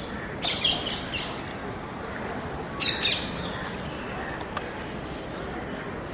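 Bird calls: a quick run of shrill chirps about half a second in, a second loud burst about three seconds in, and a fainter call near five seconds, over steady background noise.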